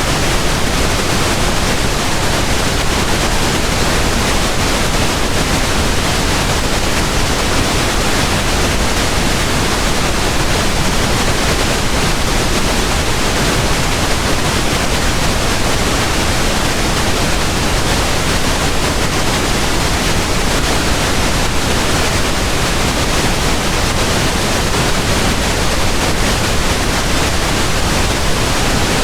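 Steady pink noise: an even, unchanging hiss spread across the whole range.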